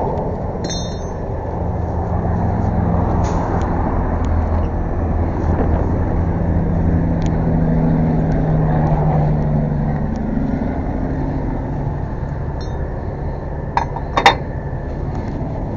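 Truck engine running, with a low drone that holds a steady pitch for several seconds in the middle. A few short high metallic clinks are scattered through it, and a sharp clank comes near the end, the loudest sound.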